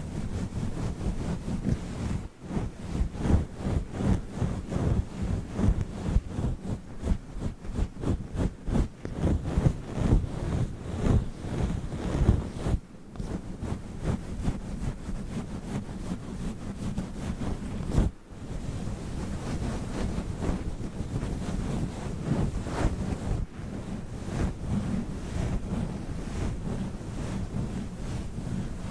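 Fluffy furry microphone cover rubbed and brushed directly against the microphone, a dense low rustling swish in quick strokes. There is one sharp click about 18 seconds in.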